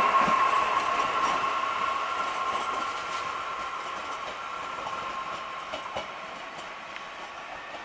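A train moving away and fading, with a steady high-pitched whine over rolling noise and a few faint clicks, dying down steadily.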